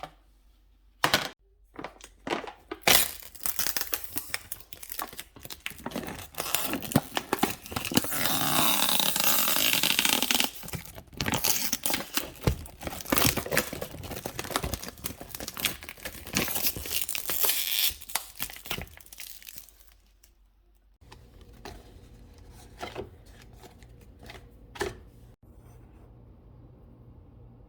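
Packaging being crinkled and torn open by hand, with many irregular crackles and clicks and a louder stretch of continuous rustling about a third of the way in. Near the end the crinkling stops and a steady low hum comes on, with a few faint clicks over it.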